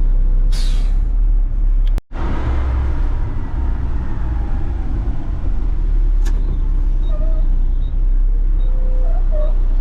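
Front-load garbage truck's diesel engine running with a steady low rumble, a short hiss about half a second in and a brief cut in the sound about two seconds in.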